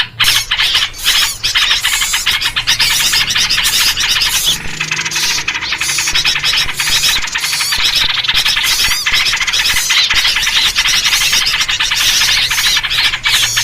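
Dense, unbroken chatter of agitated small birds, many rapid scolding and chirping calls overlapping, including yellow-vented bulbul (trucuk) calls. This is the kind of noisy mobbing chorus played as a lure to draw in wild birds. A faint steady low hum runs underneath.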